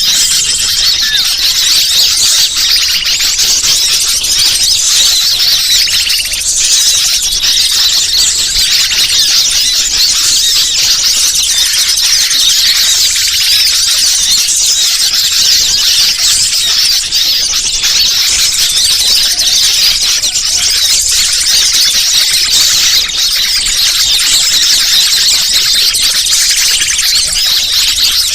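Bird-lure (pikat) recording: a loud, unbroken chorus of high-pitched chirping and twittering from many small birds.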